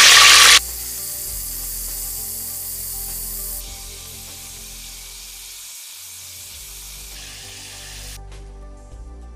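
Chopped tomato frying in hot oil in an aluminium pot with a loud sizzle, the sign that the oil is hot enough. After about half a second the sizzle drops sharply under background music, grows fainter, and fades out near the end.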